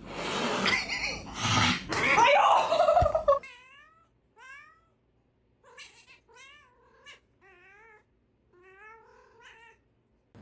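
A cat yowling in a string of drawn-out, wavering calls. These follow about three seconds of loud, noisy sound that stops abruptly.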